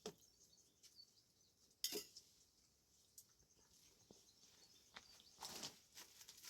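Near silence with a few faint knocks and clicks, the sharpest about two seconds in and a small cluster near the end.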